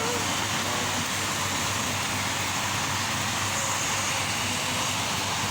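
Heavy rain falling in strong wind: a steady, even rushing noise.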